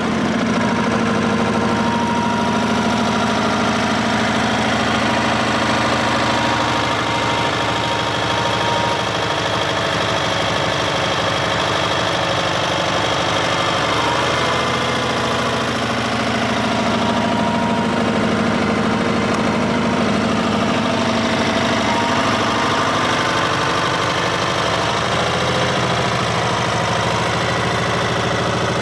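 The twin-cylinder engine of a 1974 Sears SS/16 garden tractor running steadily just after starting. Its speed dips slightly and recovers a couple of times midway. The engine has broken oil control rings, with heavy blow-by and oil consumption.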